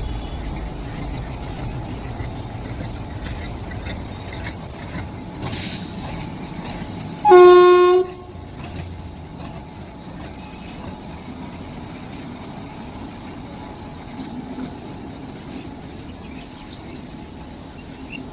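Train horn sounding one short, loud blast about seven seconds in, over the steady low rumble of a moving train.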